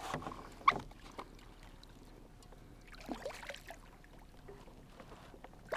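Soft water splashing and trickling beside a kayak as a hooked kokanee salmon is reeled in, with a few scattered clicks and knocks, the sharpest about a second in.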